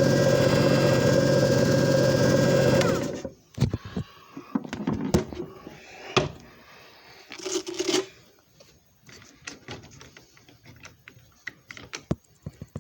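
Disc repair machine motor running steadily with a hum and a whirring tone, shutting off about three seconds in. It is followed by a string of clicks, knocks and short rattles as the machine is handled.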